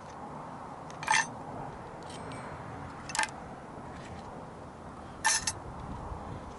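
Three short clinks of tableware being handled, about two seconds apart, the last a quick double, over a faint steady background hiss.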